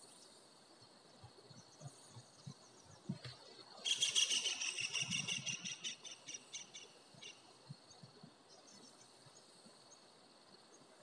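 A bird calling: a fast run of repeated high notes lasting about three seconds, starting about four seconds in, with fainter chirps before and after.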